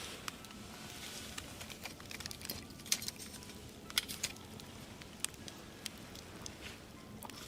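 Wood fire crackling, with irregular sharp pops and snaps over a soft steady hiss, and faint music underneath.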